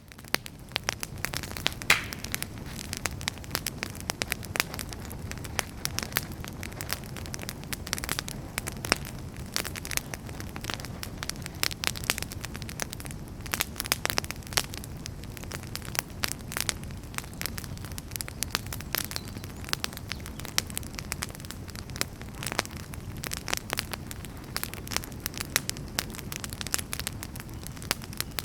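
Fire burning in a fireplace, crackling with frequent sharp pops and snaps over a steady low rushing of the flames.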